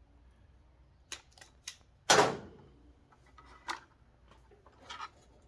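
Clicks and knocks of hand tools and wiring being handled: several light clicks and one louder knock a little after two seconds in.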